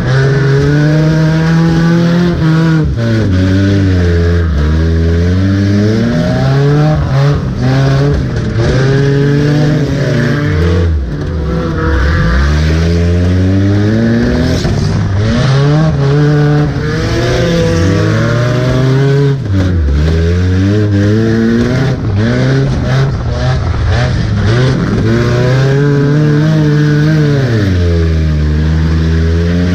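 Race car engine heard from inside the cabin, revving hard and easing off again and again, its pitch climbing and dropping back every few seconds as the car accelerates and lifts through the figure-8 track. Scattered short knocks and rattles ride over the engine.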